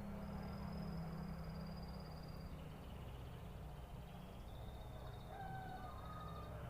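Canary singing faintly: long high trilled phrases that step down in pitch, then a few short lower whistled notes near the end, over a steady low background rumble.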